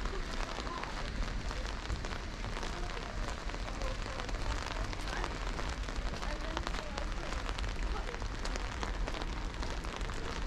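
Steady rain falling: an even hiss full of many small drop ticks, over a steady low rumble.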